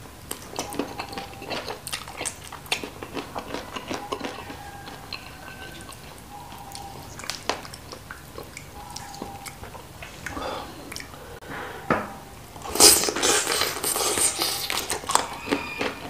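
Close-miked wet chewing, biting and lip smacks of boneless chicken feet in spicy chili sauce, with many short clicks and crackles. About thirteen seconds in, the eating sounds turn louder and denser for a few seconds.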